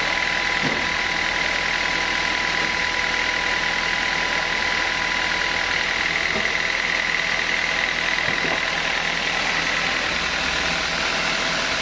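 Sawmill saw machinery running steadily, a continuous mechanical whir with a high whine over it; a lower tone in the whine stops about halfway through.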